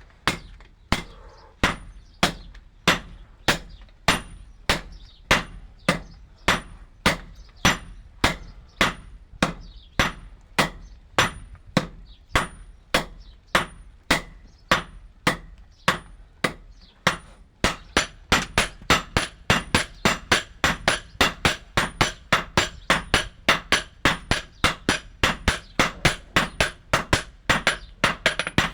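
Blacksmith's hammer striking metal on an anvil in a steady rhythm, each blow with a short metallic ring; about three blows a second, picking up to about four a second after some 17 seconds.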